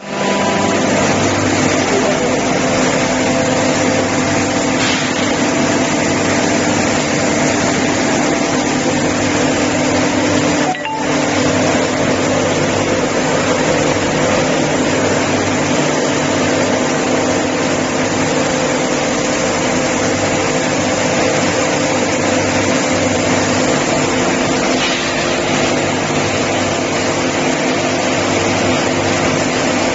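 Door brush polishing and sanding machine running steadily: electric motors humming under the noise of the sanding brushes.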